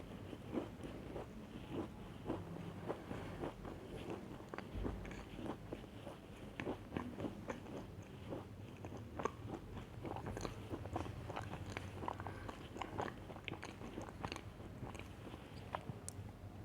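A person biting and chewing crunchy chocolate cookies: a continuous, irregular run of small crisp crunches and clicks.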